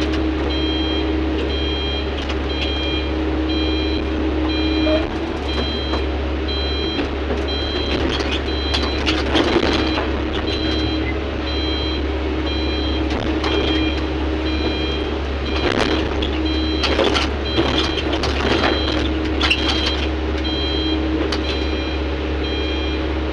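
Heavy earthmoving machinery engine running steadily, with an electronic travel or backup alarm beeping about once a second throughout. Bursts of scraping and clattering, like rock being handled, come now and then, most around the middle and from about 16 to 20 seconds in.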